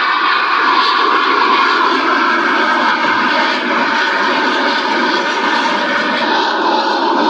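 Loud, steady jet noise from Blue Angels F/A-18 Super Hornets flying the air show demonstration.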